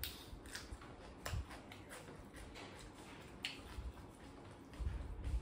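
Eating sounds: chewing and sticky mouth clicks from eating smoked pork by hand, with scattered small ticks and a few soft low knocks near the end.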